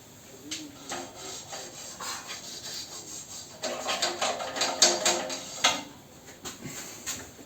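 Hand scraping and brushing on stove parts: quick rubbing strokes and small knocks, busiest and loudest for a couple of seconds about halfway through.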